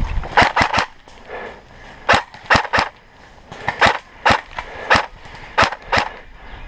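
Airsoft guns firing single shots: about a dozen sharp cracks in quick groups of two or three, with short pauses between the groups.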